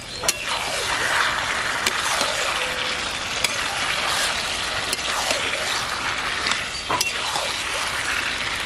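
Chicken pieces sizzling in hot oil in a metal wok while a spatula stirs and scrapes them around the pan in repeated strokes, with a few sharp clicks of the spatula against the metal. The meat is being fried down (kosha) in its spices.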